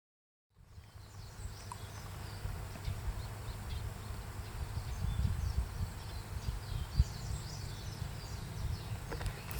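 Outdoor ambience of small birds chirping in short, scattered calls over a low, uneven rumble, fading in over the first half second.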